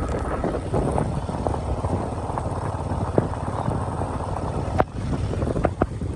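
A vehicle driving on a rough mountain road: a steady low rumble with wind buffeting the microphone, and a few sharp knocks near the end.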